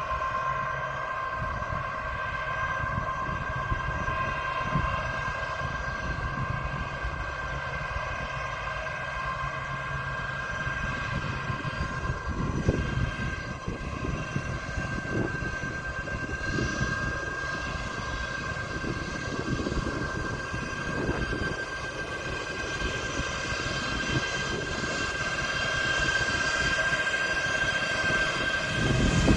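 Jet aircraft engines running on the ground with a steady multi-tone whine over a rough low rumble, growing louder over the last few seconds.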